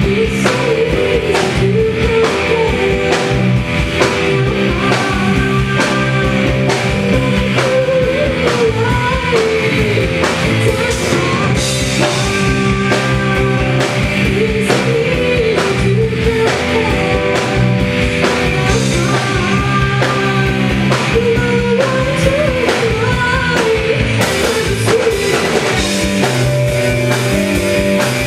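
A live rock band playing a song, with a drum kit keeping a steady beat under a singing voice.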